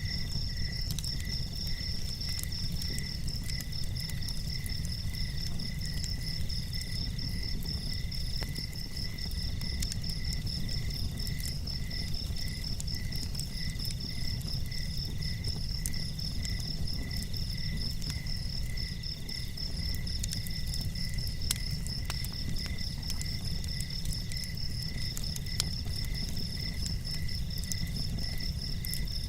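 Insects, crickets among them, chirping steadily in several fast-pulsing trills at different pitches, one of them coming and going in repeated stretches, over a steady low rumble with scattered faint ticks.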